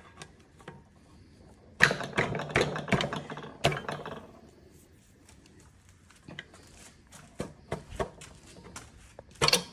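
Metal clinks, clicks and knocks from hand tools and engine parts as a connecting rod and piston are worked loose in a Kohler CV725 engine block, busiest about two seconds in and with one sharper clank near the end.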